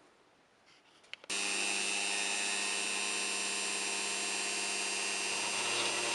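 A small electric power tool switches on after a couple of faint clicks about a second in, then runs at a steady speed.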